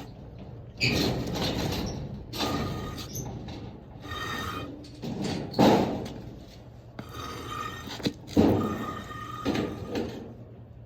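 A series of irregular bumps, scrapes and rustles from things being handled, a few with a faint squeak in them.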